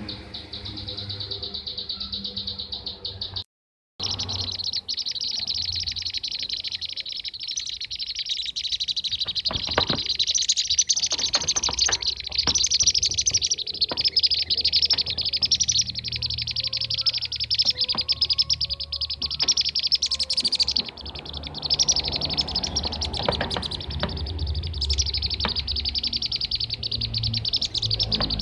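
Bee-eater (kirik-kirik) calls: a dense, unbroken stream of rapid, high chirps from several birds. The sound cuts out completely for a split second about three and a half seconds in.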